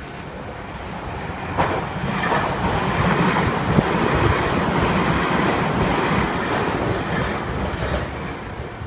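A train passing close by: a rush of wheel and rail noise that swells, is loudest in the middle and fades toward the end, with a couple of sharp clicks.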